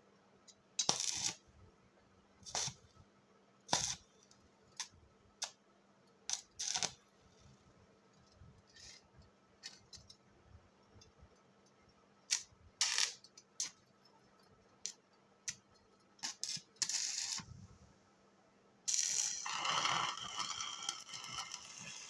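Metalwork sounds: a series of short, sharp metallic clinks and brief crackles at irregular intervals, then about three seconds of continuous crackling near the end.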